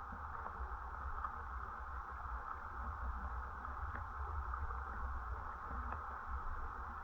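Mountain stream water running steadily, a constant rushing hiss with a low rumble underneath.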